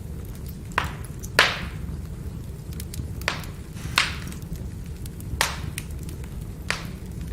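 Firewood burning, with a low steady rumble of the fire and six sharp pops from the logs, the loudest about a second and a half in.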